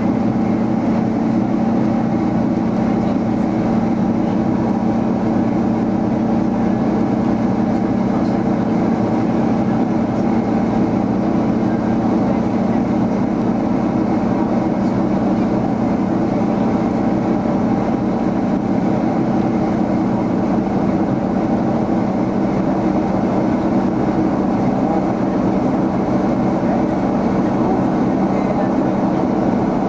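Steady in-flight cabin noise of a Boeing 767-300 airliner heard from a forward window seat: a constant drone of engines and rushing air with a steady low hum.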